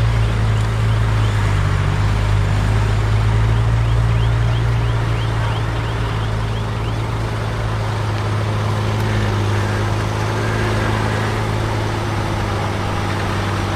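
Heavy diesel engine of earthmoving equipment running steadily with a deep, even drone. A faint, regularly repeating high squeak runs over it for the first half or so.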